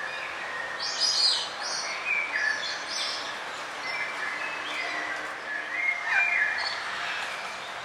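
Several forest birds chirping and trilling in short, varied calls over a steady background hiss, with the loudest bursts about a second in and again around six seconds in.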